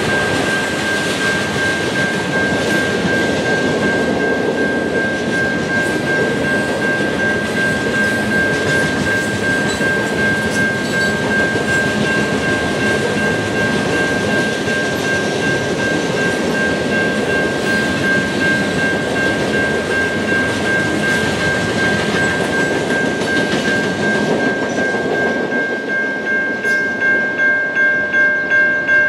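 Loaded CSX coal hopper cars rolling past at steady speed, a continuous rumble and clatter of wheels on rail with a steady high ringing tone over it. About 26 s in, as the last car goes by, the rolling noise drops and the high ringing tone is heard as rapid strokes, about two a second.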